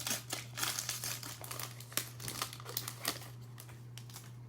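A foil trading-card pack wrapper being torn open and crinkled by hand, an irregular rustle of crackles that thins out near the end, over a steady low electrical hum.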